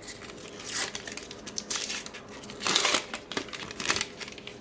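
Sticker pack wrapper crinkling and rustling as it is handled and torn open, in several short bursts, the loudest about three seconds in.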